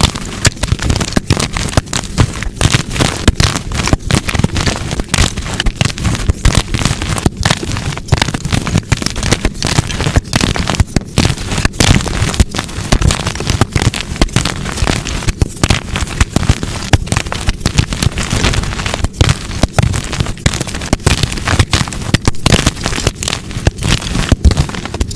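Blocks of dyed gym chalk crushed in the hands, a dense, continuous run of snapping and crunching crackles.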